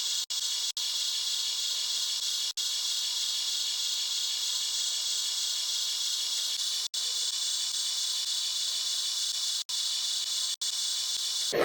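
Steady high-pitched hiss from the RC Type 74 tank model, cut by several brief dropouts.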